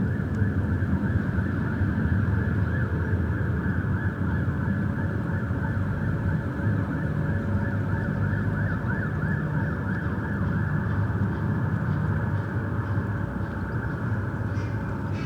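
Riverside city ambience: a steady low rumble under a busy chatter of many short, rising-and-falling bird calls, with a few sharp ticks near the end.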